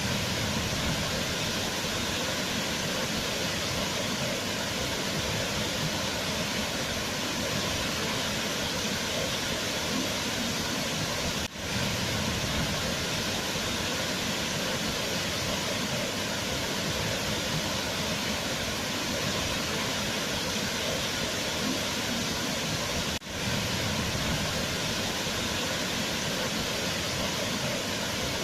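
Waterfall: a steady rush of falling water. It drops out briefly twice, about 11 and 23 seconds in.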